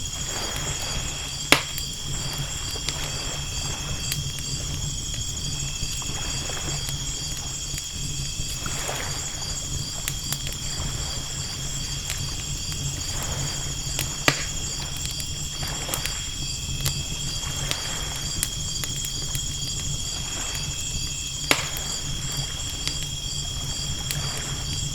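Night ambience of steady, rhythmic insect chirping over a crackling campfire that gives three sharp pops, with a soft low wash of ocean waves underneath.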